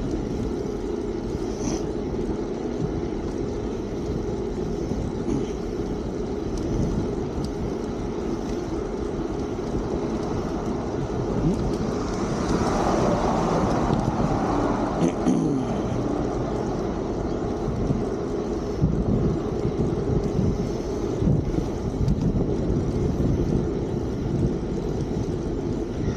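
Wind rumbling over the microphone and tyre noise from a Fiido D3 Pro electric bicycle being ridden, steady throughout, with a louder rush of noise about halfway through.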